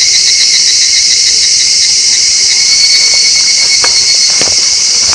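Dense chorus of crickets and other insects, a steady high shrill trilling. A few light knocks come in near the end.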